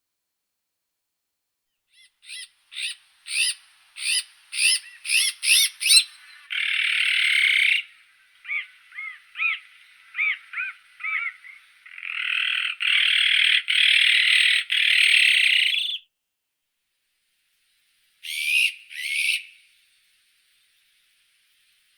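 Azure-winged magpie calling: a run of short notes that quicken, then harsh, grating rasps, the longest lasting about four seconds, between softer chirps and a final pair of notes near the end.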